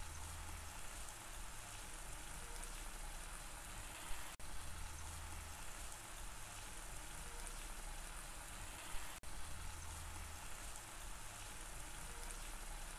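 Diced chicken and capsicum filling sizzling in a frying pan: a faint, steady hiss.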